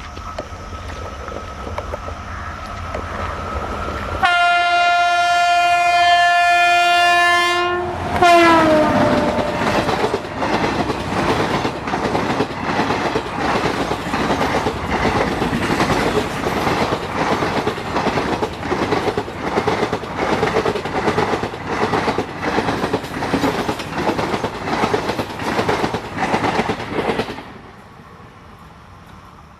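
An Indian Railways WAP-7 electric locomotive's multi-tone horn sounds for about four seconds as the train approaches, and its pitch drops sharply as the locomotive passes. The rhythmic clickety-clack of the coach wheels over the rail joints follows, then fades away near the end.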